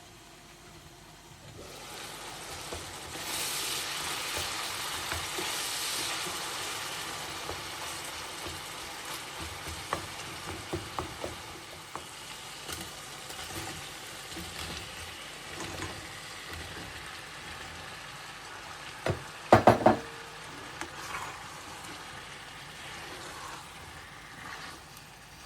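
Food sizzling in a hot frying pan, starting about two seconds in, with a few light clicks of a utensil and a quick run of loud knocks near the end.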